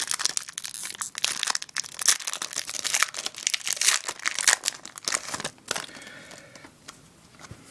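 Foil Yu-Gi-Oh booster pack being torn open and crinkled by hand, a dense crackling that dies down about two-thirds of the way through.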